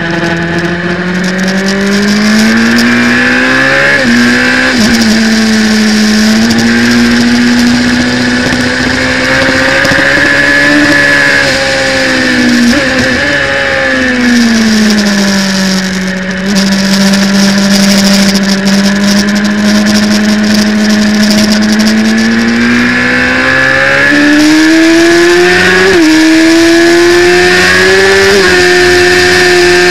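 Superbike engine at racing speed, heard onboard: the revs climb, step down briefly at quick upshifts, fall away for a few seconds in the middle as it eases off, then climb again with two more upshifts near the end, over a steady rush of wind.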